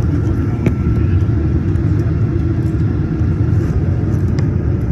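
Steady low rumble of cabin noise inside a Boeing 737-900ER airliner on the ground before takeoff, with a faint steady high whine and a few light clicks.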